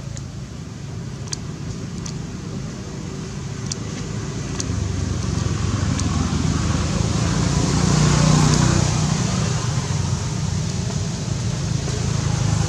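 A motor vehicle going by: a low rumble that grows louder to a peak about eight seconds in, then eases a little, with a few sharp clicks in the first few seconds.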